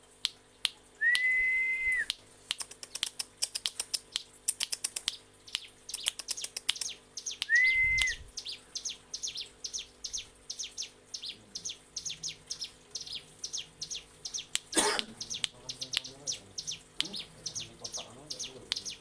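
Ciblek gunung (hill prinia) singing a rapid, unbroken 'ngebren' song: a fast run of sharp ticking notes, several a second, twice broken by a short level whistle. One louder sharp click sounds about three-quarters of the way through.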